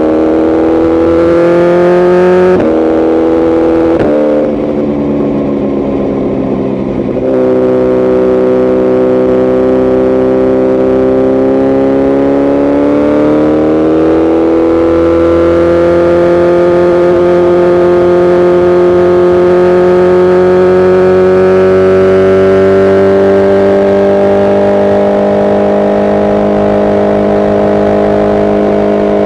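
BMW S1000RR inline-four with a tuned exhaust, accelerating with two quick upshifts in the first few seconds. It then eases off for a few seconds before pulling again and holding a steady high-revving drone.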